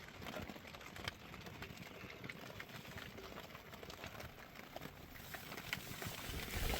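Steady rain pattering, a dense crackle of small drops. Near the end it thickens and a low rumble of wind on the microphone comes in.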